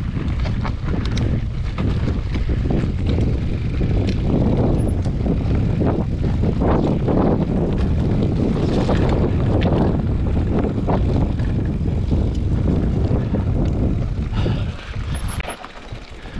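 Off-road motorcycle engine running steadily while riding a trail, with wind rumble on the microphone; it drops off briefly near the end.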